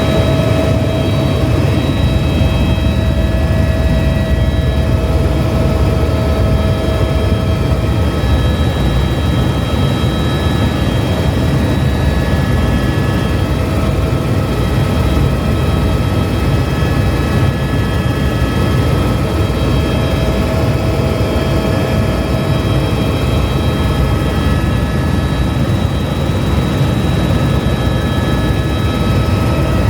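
Helicopter in flight, running steadily: a loud, even low rotor thrum with a turbine whine of several steady tones on top.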